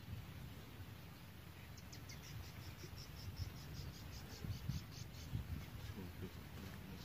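Faint, rhythmic high chirping from a small animal, about five chirps a second, starting about two seconds in, over a low rumble with occasional soft bumps.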